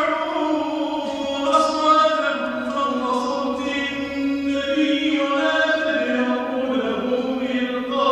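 A man reciting the Qur'an aloud in a melodic, chanted style during the prayer, drawing the syllables out into long, wavering notes.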